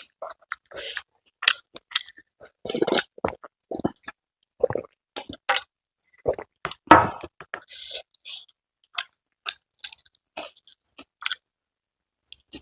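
A person chewing and eating with the mouth close to the microphone: irregular wet smacks and short crunches, one louder crunch about seven seconds in.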